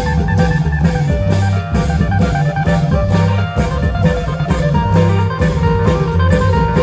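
Isan klong yao long-drum ensemble playing: deep drum notes under a steady beat of about four strikes a second, with a plucked string melody on top.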